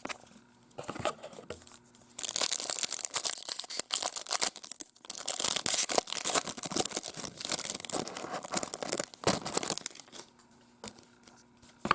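A foil baseball card pack wrapper being torn open and crinkled, a dense crackling rustle lasting several seconds that stops near the end.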